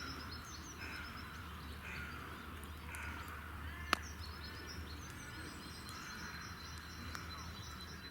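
Outdoor ambience with birds calling, short arching calls repeating about once a second with fainter high chirps, over a steady low rumble; a single sharp click about four seconds in.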